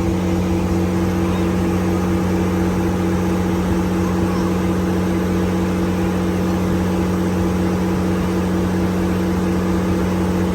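Boat engine running steadily at a constant speed, a low even drone with a regular pulse.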